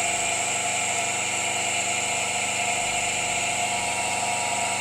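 Asynchronous (induction) motor running steadily on a single capacitor, a constant hum with a higher whine on top and no change in speed.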